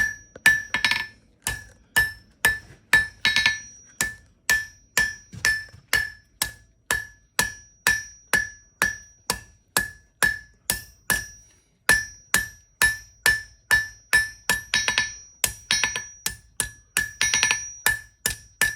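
Blacksmith's hand hammer striking hot steel bar stock on an anvil in a steady rhythm, about two blows a second, each blow ringing clearly off the anvil. The blows stop for a moment a little past the middle, then carry on.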